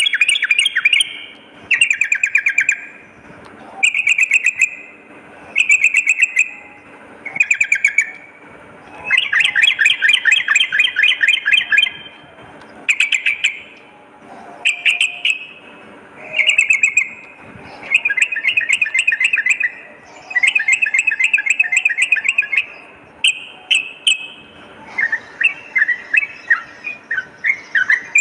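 Yellow-vented bulbul (trucukan) singing: loud, bubbly phrases of rapid notes, each about a second long and some up to three seconds, repeated every couple of seconds and breaking into quicker chatter near the end.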